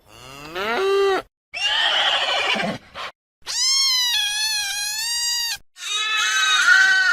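A quick series of four different animal calls, each one to two seconds long with short pauses between. The first rises steeply in pitch, and the third is a long call held at an even pitch.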